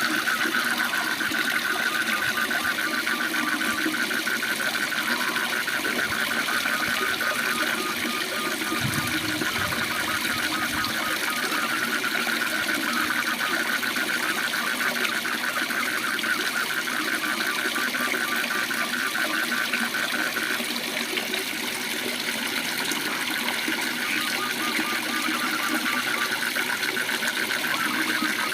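Steady rush of a waterfall with frogs trilling over it: fast, even, high-pitched pulsing calls that carry on almost without a break, with a second, slower pulsing call just beneath them.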